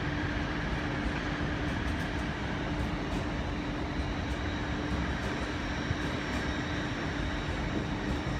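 An LNER Azuma electric multiple unit running past along the tracks, a steady rolling noise of its wheels with a constant low hum.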